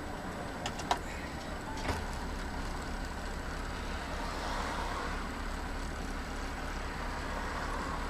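Steady vehicle driving noise, engine and road, with two short knocks about one and two seconds in.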